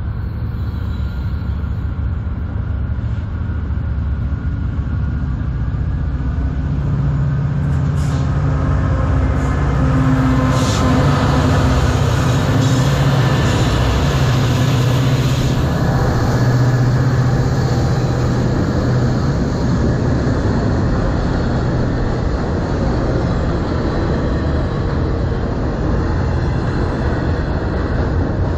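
Freight train passing close by: its diesel locomotives' engines running louder as they approach and go by, then a long string of autorack cars rolling past with steady wheel-on-rail noise.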